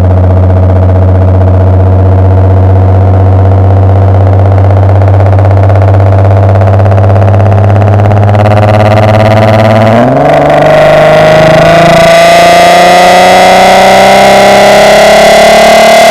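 Volkswagen Golf R32's 3.2 VR6 engine heard through a decat, non-resonated Milltek exhaust: a steady drone while cruising, then, about ten seconds in, a brief break and the pitch climbs steadily as the car accelerates. It is so loud that the microphone overloads, and the sound comes out distorted.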